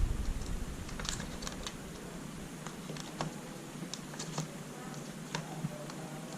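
Scattered light clicks and taps of an SSD and laptop parts being handled and pushed into place in the drive bay, irregular and spaced out.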